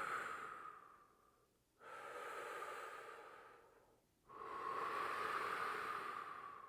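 A man breathing slowly and deeply: the end of one breath, then two long breaths of about two seconds each, separated by short silences.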